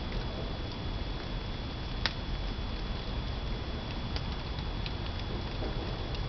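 Pine-wood fire burning in a traditional firewood kiln: a steady rushing with scattered sharp crackles, the loudest about two seconds in.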